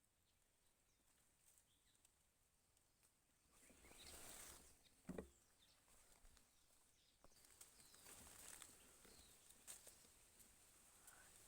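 Near silence of outdoor ambience with faint rustling and a few faint bird chirps, and one short sharp knock about five seconds in.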